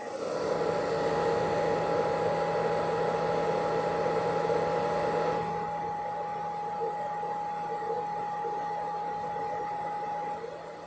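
A small electric appliance motor running with a steady whir and hum. It starts abruptly and drops to a lower, quieter setting about five and a half seconds in.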